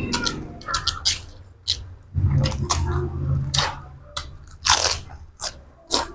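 Close-up crunching and chewing of crisp fresh vegetables and pork salad, a string of sharp crunches throughout, with a low steady hum for over a second about two seconds in.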